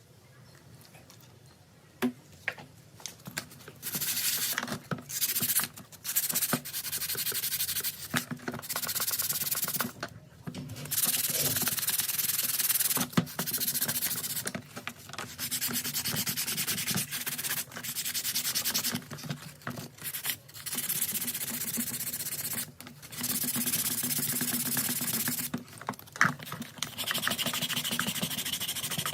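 Abrasive rubbing by hand on a part of an old rotary hammer during its restoration, in repeated strokes of one to three seconds with short pauses between them.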